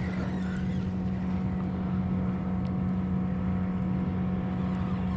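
Boat motor running steadily at one constant pitch.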